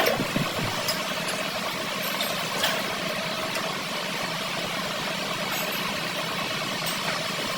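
A workshop machine running steadily with an even, unchanging hum, and a sharp click right at the start.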